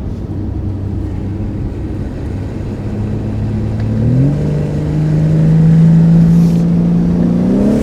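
BMW G80 M3's twin-turbo inline-six through a full titanium Valvemaster exhaust, heard from inside the cabin. It runs at a steady low engine speed, then the note climbs quickly about four seconds in and holds at the higher pitch. It starts climbing again near the end.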